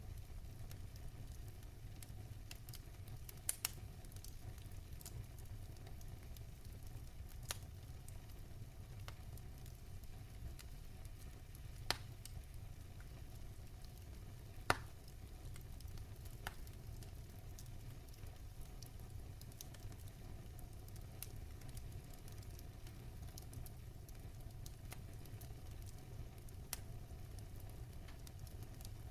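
Wood fire crackling: a steady low rumble of the burning fire with scattered sharp pops and snaps, two of them louder, about twelve and fifteen seconds in.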